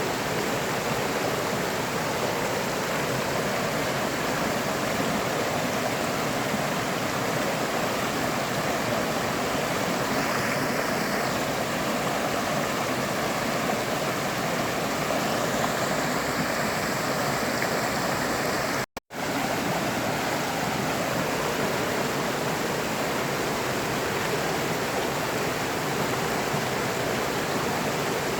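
A stream or river flowing, a steady, unbroken rush of water. About two-thirds of the way through, the sound drops out to silence for a split second, then resumes.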